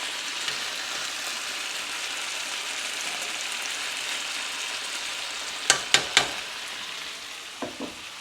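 Sliced potatoes and onions frying in a skillet with a steady sizzle. About six seconds in come three sharp clacks close together, then two softer knocks near the end as the sizzle grows quieter.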